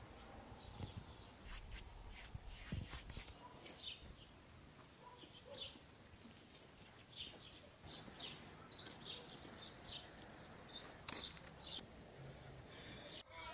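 Small birds chirping faintly in short, high, scattered calls.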